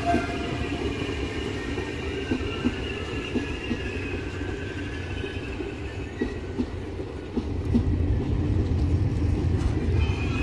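Electric-hauled Trenord passenger train rolling past along the platform: a steady low rumble of wheels on rail with scattered clicks over the track, and a faint high whine above it. It grows louder about seven and a half seconds in.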